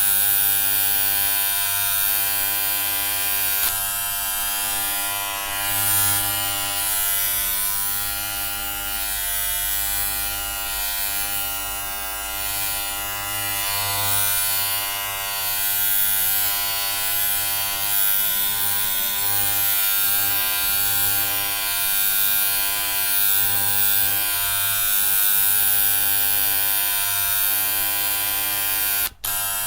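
Electric hair clippers buzzing steadily, with a momentary break near the end.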